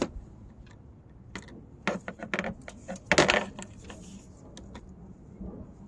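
Metal tools and parts clinking as they are handled: a string of sharp clicks and clinks, loudest a little past the middle.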